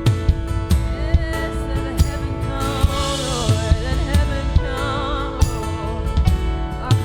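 Live worship band music with a steady drum beat and sustained keyboard chords, and a wordless sung vocal line with vibrato.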